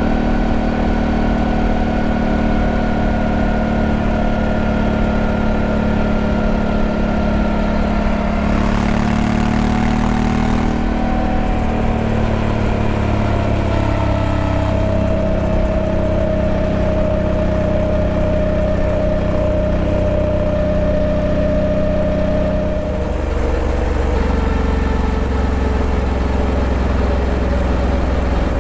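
Honda Africa Twin 1100's parallel-twin engine running steadily, its pitch drifting slowly down, with a brief rush of noise about nine seconds in and an abrupt change in the engine note about two-thirds of the way through.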